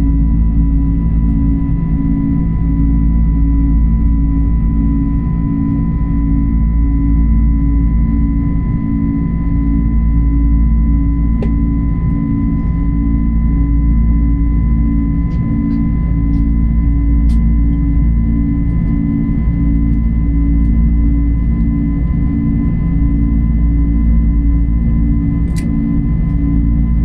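Airliner cabin noise: a steady, loud jet-engine drone with a low rumble and a pulsing, beating hum, plus a few faint clicks.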